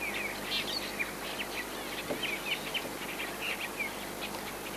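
Cape glossy starlings chattering: many quick, overlapping chirps and short sliding whistles.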